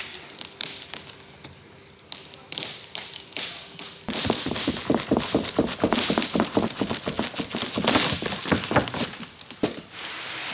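Rapid tapping, knocking and scraping on a truck windshield's stuck molding as it is worked loose. The sounds are sparse at first, then become louder and much denser about four seconds in.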